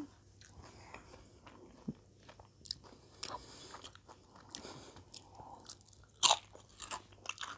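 Close-up eating sounds of crisp tortilla-chip nachos being chewed: soft wet chewing and small clicks, then a few sharp, loud crunches about six seconds in.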